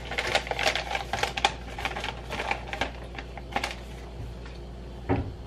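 Close-up chewing of a crunchy mini Belgian waffle cookie: a run of quick, irregular crisp crunches, then a single duller low knock near the end.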